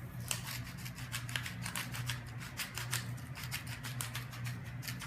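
Stainless steel salt grinder grinding salt crystals: a fast, uneven run of dry crunching clicks, several a second.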